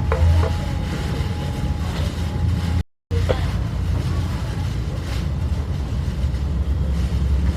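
Steady low rumble of a 35-series passenger coach riding on rails, heard from inside the car, with faint clicks and rattles over it. It is broken by a moment of complete silence just before three seconds in.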